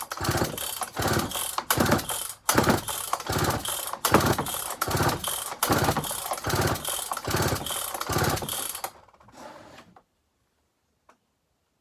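Dolmar 6400 two-stroke chainsaw being cranked on its recoil starter, about fourteen quick pulls in a row with the engine turning over but not firing, then stopping about nine seconds in. It is being pulled over to draw fuel into the freshly cleaned Zama carburettor, and the fuel line stays dry: the carb is not pulling fuel.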